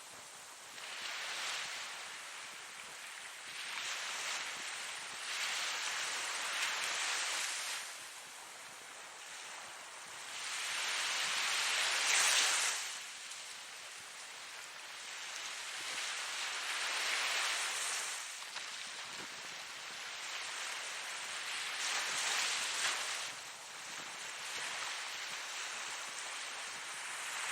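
Ocean waves breaking and washing in surf, each wash swelling and fading over a few seconds, with the loudest surge about twelve seconds in.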